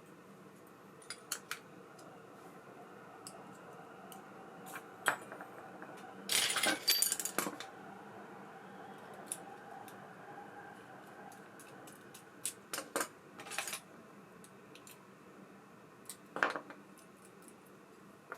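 Small metal parts of a baitcasting reel clinking and clicking as they are handled on a workbench, with scattered single clicks and a louder run of jingling clinks about six to seven and a half seconds in, and shorter ones later.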